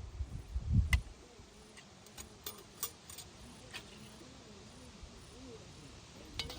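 Scattered light clicks and taps, with a soft low thump a little under a second in and a quick cluster of clicks near the end.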